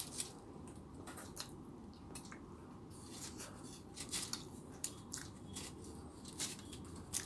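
Close-up chewing of a crunchy fried chicken burger: irregular crisp crunches and clicks, a few a second.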